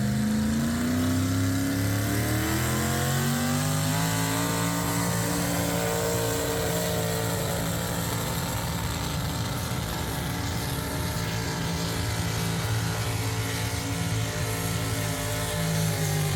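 Engine of a pulling vehicle on a pull run, rising in revs over the first few seconds and then held at high, steady revs.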